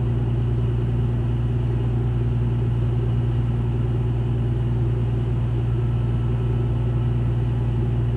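A ship's engine running steadily: an even low drone that does not change.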